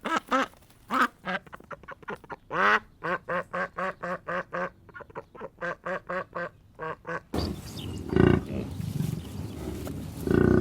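Duck quacking in a long run of short calls that come faster and faster. About seven seconds in, it gives way to a different, noisier recording with two louder calls from another animal.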